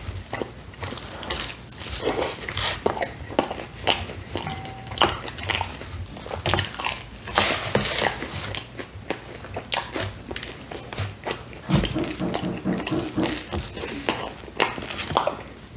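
Close-miked chewing and mouth sounds of someone eating pizza crust dipped in sauce: irregular wet smacks and crunches. A dull thump comes about twelve seconds in.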